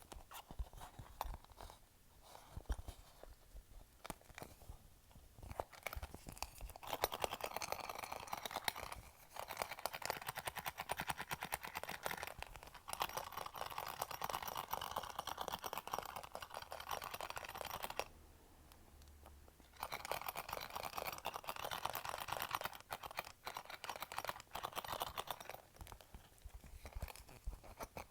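Fingers tapping on a clear plastic pouch, the plastic crackling in quick, dense clicks that sound like popcorn popping. The taps are sparse at first, turn dense a few seconds in, stop briefly about two-thirds of the way through, then resume.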